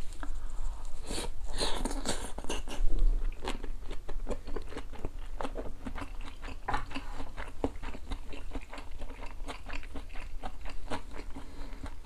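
A person biting into and chewing a mouthful of square fish cake with stewed kimchi, a steady run of small, quick mouth clicks.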